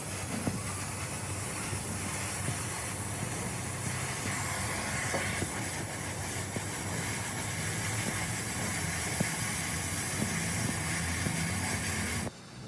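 A steady hiss, like a jet of air or spray, over a low hum, cutting off suddenly near the end.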